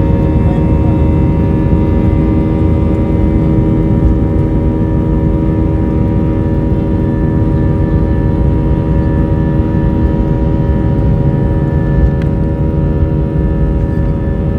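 Airplane engines running steadily: a loud low rumble with several steady whining tones, unchanging in pitch and level.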